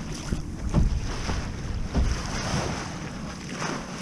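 Wind buffeting the microphone on a small sailboat under way, over a steady hiss of water moving along the hull.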